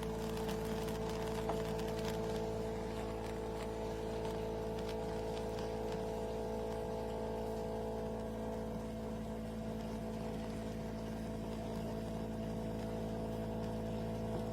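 De'Longhi Rivelia automatic espresso machine running through a milk drink, a steady mechanical hum with a few light clicks in the first couple of seconds.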